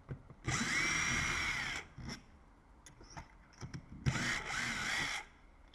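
Cordless drill-driver run in two short bursts of about a second each, its motor whine rising to speed and dropping away, backing out the screws of a door lock set. Faint clicks of handling between the runs.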